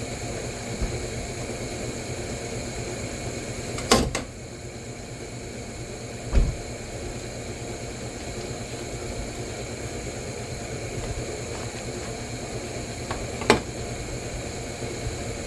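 Steady machine hum with a sharp click about four seconds in, a dull thump a couple of seconds later, and another sharp click near the end.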